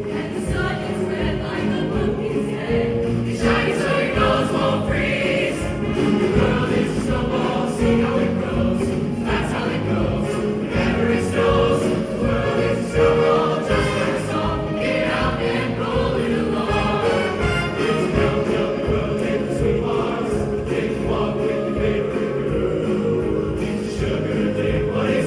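A school choir singing a Christmas song in concert, many voices together in sustained, unbroken singing.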